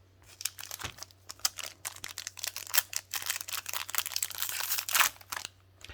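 Foil booster pack wrapper being handled and pulled open: a rapid run of small crinkles and crackles.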